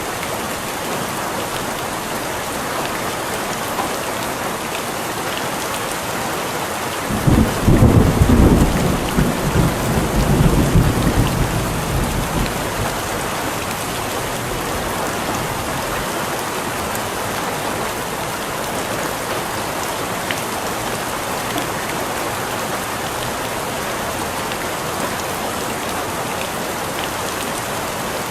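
Steady rain falling, with one roll of thunder about a quarter of the way in that starts suddenly, rumbles for a few seconds and fades away.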